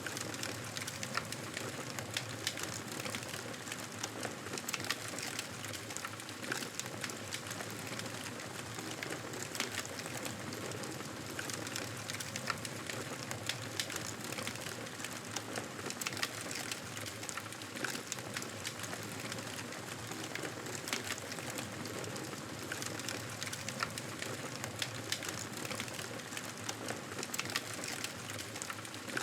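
Wood fire crackling, with a steady hiss under many small irregular pops and snaps.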